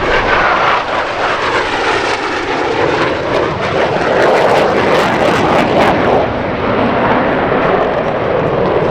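Piston-engine propeller fighter making a low pass, its engine noise swelling to a peak about halfway through and then easing off, with a slowly wavering pitch pattern as it goes by.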